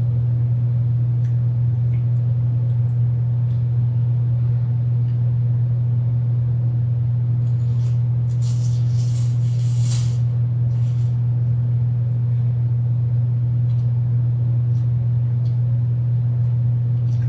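A steady, loud low hum throughout, with a few faint clicks and a brief patch of high hissy noise about halfway through.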